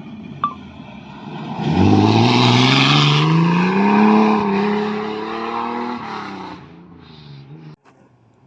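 Rally car engine accelerating hard as the car goes by. Its pitch rises steeply for about two seconds, dips briefly, holds, then falls away and fades out.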